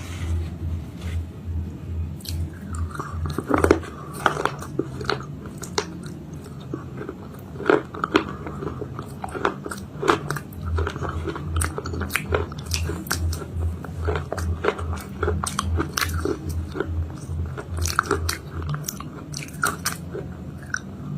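Close-miked biting and chewing of a homemade chalk-paste cake, with many sharp crunches and clicks throughout over steady chewing.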